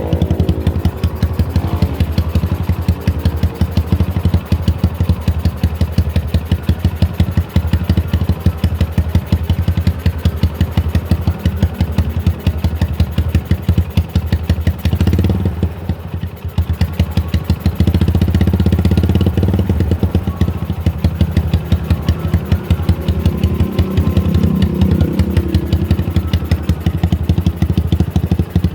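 Yamaha Scorpio Z single-cylinder four-stroke engine running through an aftermarket RCB exhaust, with a loud, rapid pulsing exhaust note. The note changes briefly about halfway through, then settles back into the same steady running.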